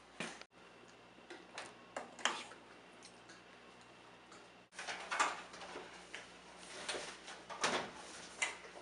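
Irregular faint clicks and knocks, about a dozen scattered through, over quiet room tone.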